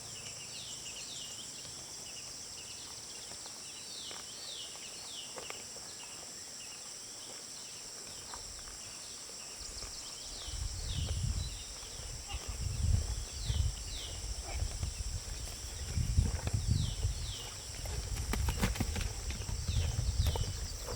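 Outdoor countryside ambience: a steady high insect buzz with a bird calling over and over in pairs of short falling notes. From about halfway, irregular low rumbling thuds come in and become the loudest sound.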